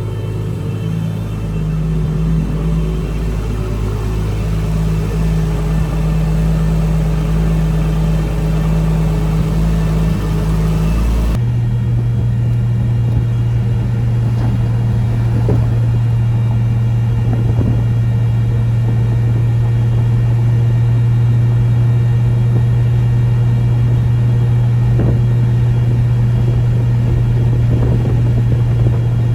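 Nissan RB25 NEO straight-six with a big turbo, freshly installed, running at a steady speed while its tune is being adjusted. The engine note changes abruptly about eleven seconds in, then holds steady again.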